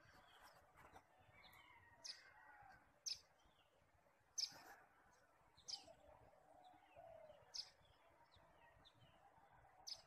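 Faint birdsong outdoors: a short, sharp high chip repeats every second or two, about six in all, over softer, lower chirping of other birds.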